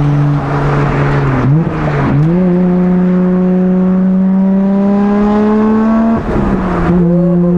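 Nissan Skyline R32 GT-R's twin-turbo straight-six exhaust under way. The pitch dips briefly twice between about 1.5 and 2 seconds in, then climbs slowly as the car pulls. Near the six-second mark the pitch drops and the exhaust settles into a lower steady note.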